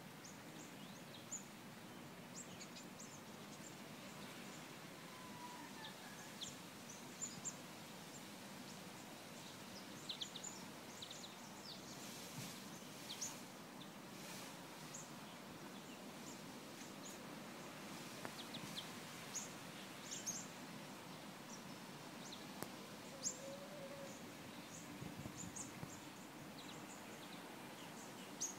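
Quiet outdoor ambience with birds chirping faintly and sporadically over a low steady background.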